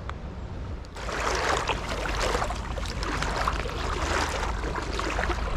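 Creek water splashing and rushing, turning louder and surging unevenly from about a second in, over a low wind rumble on the microphone.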